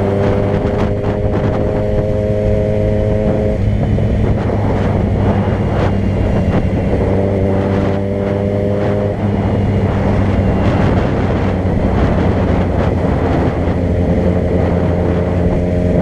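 Vehicle engine running steadily while driving, with road noise.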